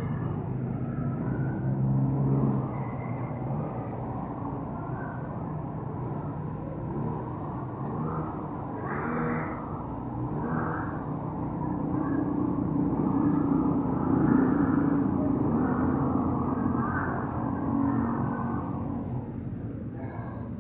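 Road traffic: motor vehicle engines running and passing, a steady mix of engine noise that swells and fades.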